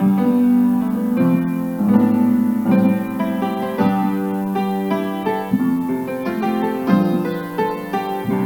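Solo piano playing slow chords, a new chord struck about every half second to second.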